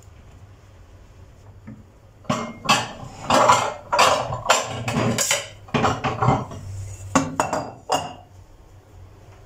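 Hard objects clattering and knocking together in a quick irregular run, from about two seconds in until about eight seconds, over a faint steady low hum.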